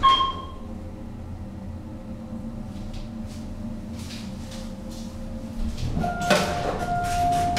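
Otis hydraulic elevator car travelling with a steady low hum. About six seconds in, a clunk comes as the car stops, followed by a held tone.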